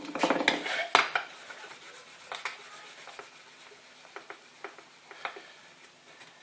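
Small metal parts and tools clinking and scraping as a throttle body is handled. There is a burst of clatter in the first second, then scattered light clicks.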